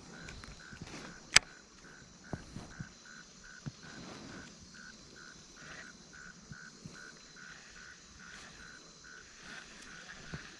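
Steady, evenly repeated chirping of a calling animal at the pond's edge, about three chirps a second. A single sharp click comes about a second and a half in, followed by a few lighter knocks.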